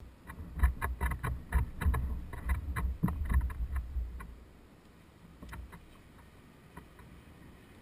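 Low rumble with a rapid run of clicks and knocks for about four seconds, then fading to a faint background with a few scattered clicks.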